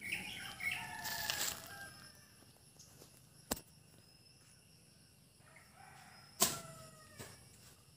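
Faint bird calls, a few short chirps at the start and again near the end. Two sharp clicks cut through, the louder one about six seconds in.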